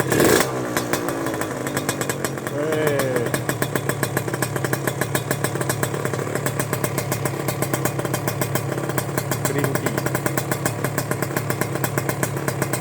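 Suzuki Satria 120R two-stroke engine idling steadily through an aftermarket Creampie Racing exhaust, with a quick throttle blip right at the start.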